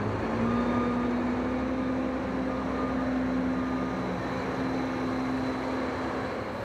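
Concrete pump truck backing up: its engine runs steadily while the reversing beeper keeps beeping, fading out over the first couple of seconds.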